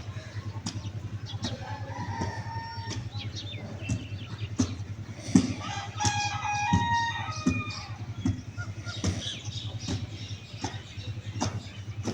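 Chickens calling and clucking, with a longer stepped call about six seconds in, over a steady low pulsing hum and scattered clicks.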